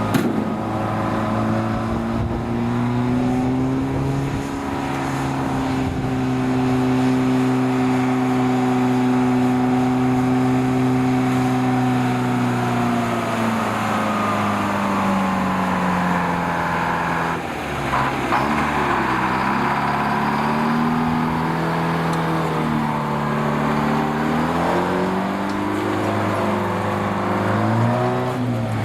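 Heavy truck's diesel engine running under load. Its pitch rises, holds steady, then sinks; about halfway it drops sharply and climbs again, wavering up and down near the end.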